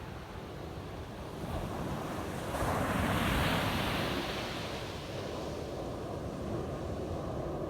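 Ocean waves breaking on a beach: surf that swells to a peak about three seconds in and then washes back, with a steady rush of wind.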